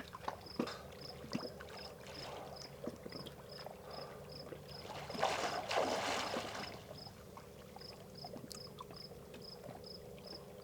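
A cricket chirping steadily, about two to three short high chirps a second, over small splashes and water sounds, with a louder swell of noise about five seconds in.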